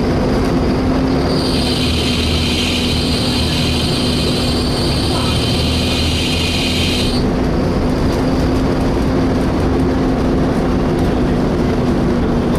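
Volvo B7TL double-decker bus heard from inside while under way: a steady whine from the engine cooling fan, which has a hoover-like sound, over the engine's low rumble. About a second and a half in, a loud high-pitched screech starts. It holds for about six seconds and then cuts off suddenly.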